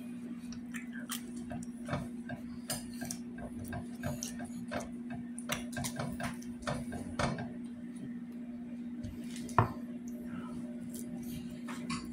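Close-up chewing of a flour tortilla: a run of small wet clicks and smacks from the mouth, over a steady low hum. One sharper click stands out a little before ten seconds in.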